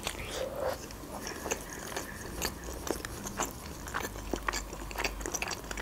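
Close-up mouth sounds of a person chewing a bite of baked casserole: many small, irregular wet clicks and smacks.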